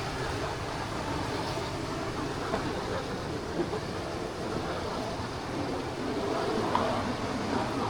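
Steady rush of a waterfall and its stream, with a couple of faint knocks.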